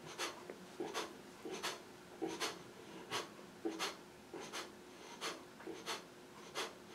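Kapalbhati breathing: short, forceful exhalations pumped out through the nose by snapping in the belly, in an even rhythm of about three strokes every two seconds.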